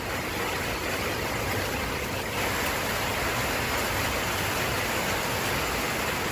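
Heavy rain falling on a carport roof: a steady, dense hiss of rain that grows a little louder about two seconds in.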